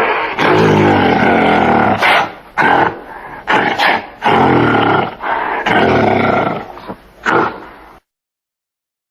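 An animal calling loudly again and again: about six drawn-out calls, some a second or more long, that end about a second before the close.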